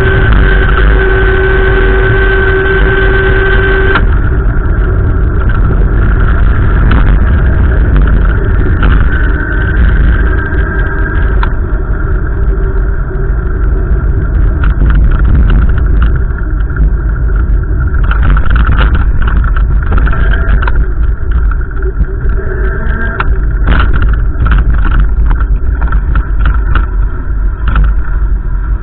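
Strong gusty wind buffeting the microphone: a loud, continuous low rumble. A steady high tone sounds through the first four seconds, and brief clicks and crackles come in the second half.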